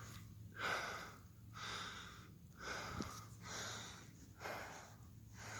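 A man breathing hard through the mouth, a breath about every second, out of breath from climbing a steep hill.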